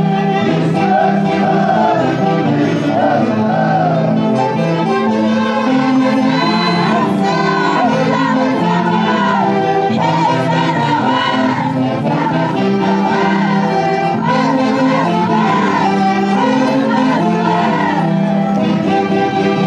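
Live Andean highland orchestra (orquesta típica) playing a festival tune: a wavering melody line over sustained bass notes.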